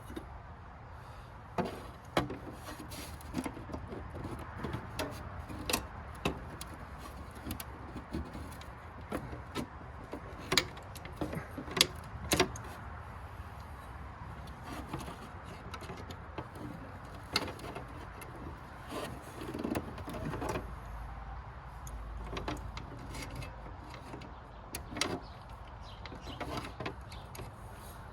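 Scattered clicks, knocks and light rattles of metal parts and hand tools being handled during work on a garden tractor's clutch spring linkage, with no engine running.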